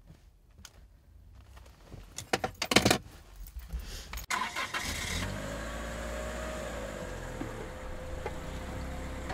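A car being started: scattered clicks and a short sharp clatter, then the engine catches about four and a half seconds in and runs steadily at idle.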